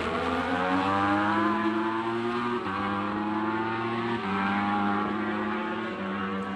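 Superbike racing motorcycle engine at high revs under hard acceleration, its pitch climbing steadily and stepping abruptly twice, about two and a half and four seconds in.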